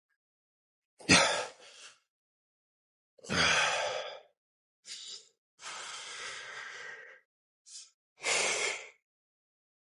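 A man breathing out hard: about six loud, breathy exhalations and sighs, irregularly spaced, the first one the loudest.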